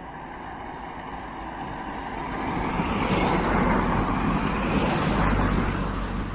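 A train passing close by: a rumbling, hissing rush that builds from about two seconds in and is loudest for the last few seconds.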